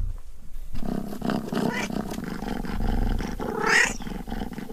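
Domestic cat growling low and steadily for a couple of seconds, then giving a short meow-like yowl that rises and falls near the end.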